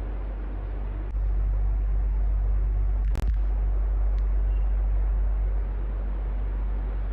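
Electric fan running with a steady rush of air and a low rumble. It gets louder about a second in, cuts out for an instant near the middle, and eases back down near the end.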